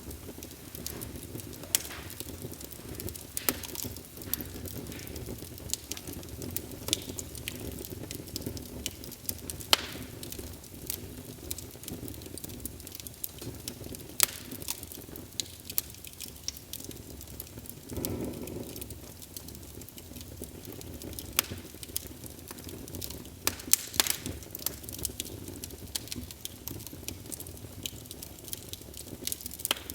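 Wood fire burning in a fireplace: a steady low rumble of flame under frequent sharp crackles and pops, with a brief louder whoosh about 18 seconds in.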